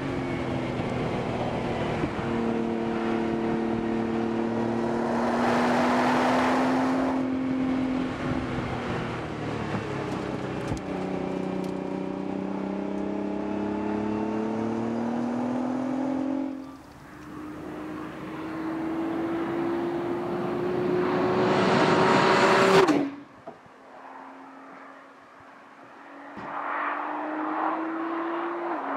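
Nissan GT-R's twin-turbo V6 accelerating through the gears, its pitch climbing in each gear and dropping at the shifts. It grows loud with a rush of passing air about six seconds in and again around twenty-two seconds, then cuts off suddenly to a quieter steady drone.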